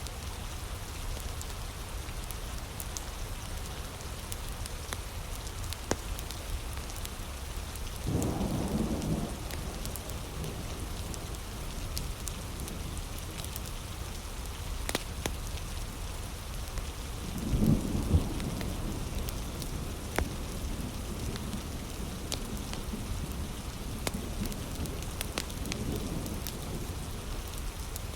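Heavy, steady rain with low rolls of thunder, the strongest about 8 seconds and 18 seconds in and a weaker one near the end. Scattered sharp crackles of a wood fire run through it.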